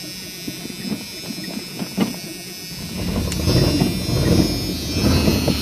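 1986 Chevrolet Silverado pickup's engine on a cold start with a freshly installed battery: cranking, then catching about three seconds in and running, the low rumble swelling. A steady high-pitched whine sits over it.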